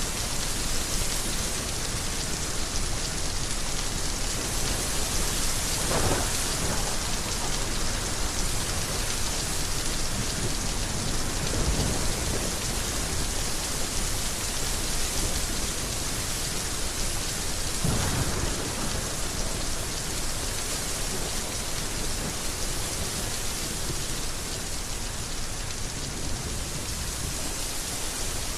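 Heavy rain falling steadily, with thunder rumbling three times, about six seconds apart.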